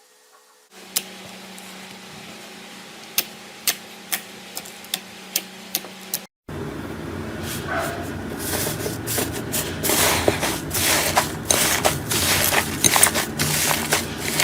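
Slime being squeezed and worked by hand: first sparse sharp pops and clicks over a steady low hum, then, after a brief cut, denser crackling, popping and squishing.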